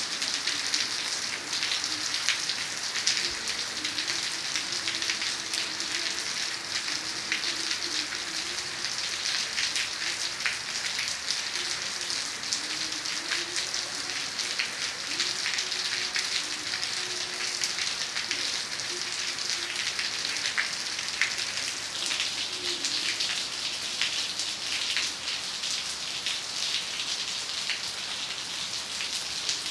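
Heavy rain falling steadily: a dense, even hiss made of countless small drop impacts.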